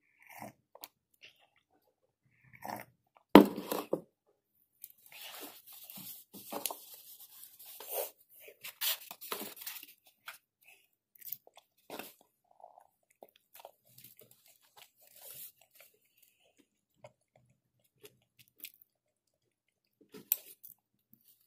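Chewing and crunching of a macaroni and vegetable salad, with scattered light clicks of a metal fork against the bowl. One sharp knock about three seconds in is the loudest sound.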